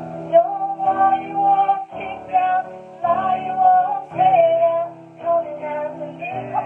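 Worship music: a singer holding long notes that bend in pitch, over guitar and band accompaniment, with short breaks between phrases.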